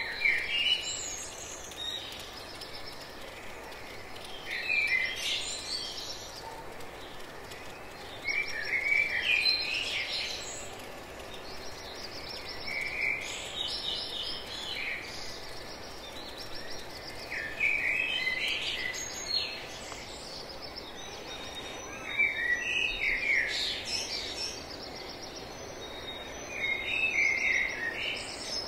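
A songbird singing short phrases of chirps, each about a second long, repeating about every four to five seconds over a steady background hiss of outdoor ambience.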